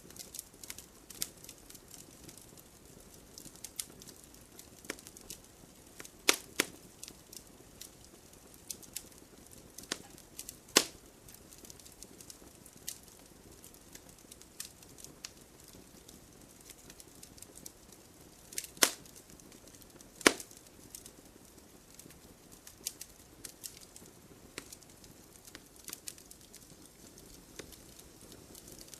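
Wood fire crackling: frequent small irregular pops over a faint hiss, with a handful of louder snaps scattered through.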